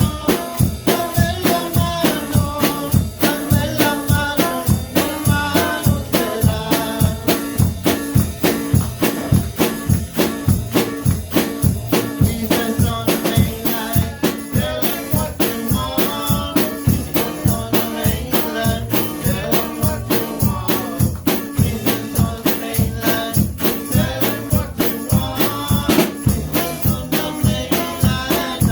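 Live worship music with a driving drum beat and a tambourine-like jingle, with some singing over it.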